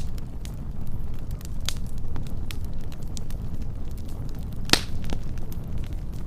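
Wood fire burning with a steady low rumble and scattered crackles, one louder pop near the end.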